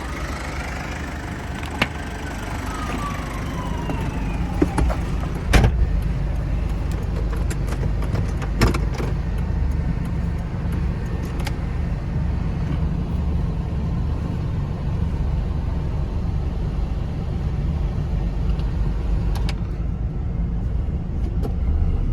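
1997 Mazda Bongo Friendee van on the move, its 2.5-litre turbo diesel and the road making a steady low rumble. A few gliding tones sound in the first few seconds, and a few sharp knocks come at about 2, 5 and 9 seconds in.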